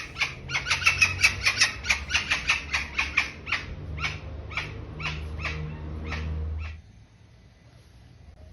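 A bird giving a rapid series of short, harsh calls, about four or five a second, that slow down and weaken, then stop almost seven seconds in.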